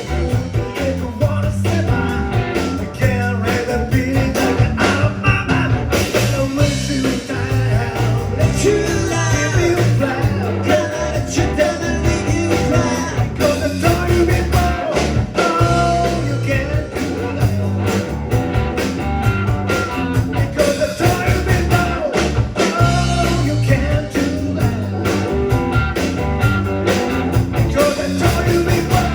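Rock and roll music with bass, drums, guitar and singing, playing steadily.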